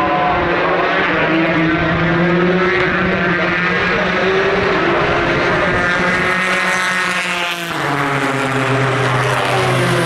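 Race car engines at speed on the circuit, their pitch climbing as they accelerate. About three-quarters through there is a brief dip and the note drops, as on a lift or gear change, then it builds again.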